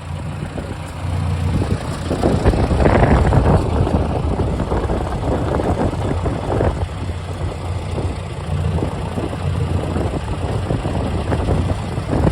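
Ford Jubilee NAA tractor's four-cylinder engine running; it gets louder about two seconds in, then runs steadily.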